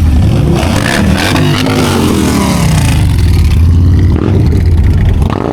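A vehicle engine being revved: the pitch climbs about a second in, falls back over the next second or so, then settles into a steady low idle.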